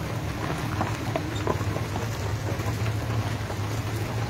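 Engine of a Chevrolet Suburban hearse running as it rolls slowly past, a steady low hum under a rushing noise.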